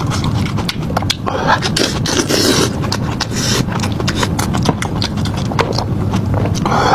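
Close-miked chewing of crunchy food, a quick run of crackles and wet mouth clicks.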